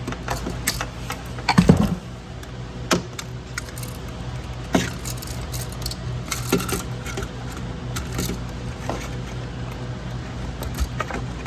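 Scattered small clicks and light rattles of wires being pushed into lever-type wire connectors and handled, over a low steady hum.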